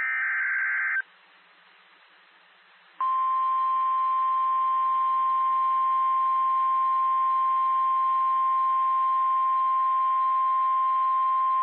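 NOAA Weather Radio alert signals: the end of a SAME digital header, a harsh warbling data burst lasting about a second, then a couple of seconds of faint radio hiss. At about three seconds in, the 1050 Hz warning alarm tone starts, one steady high tone held for about nine seconds, signalling that a warning message follows.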